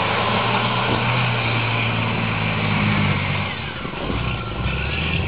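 Scania truck engine running hard while the truck spins in circles. The engine eases off briefly about three and a half seconds in, then picks up again.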